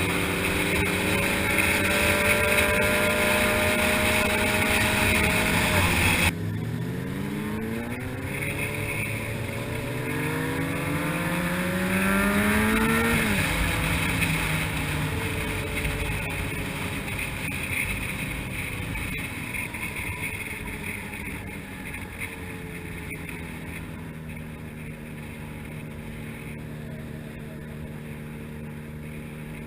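Honda CBR600RR sportbike's inline-four engine under way: the revs climb for about six seconds, drop sharply, climb again, then fall off about thirteen seconds in and settle to a steadier, quieter cruise, with wind noise throughout.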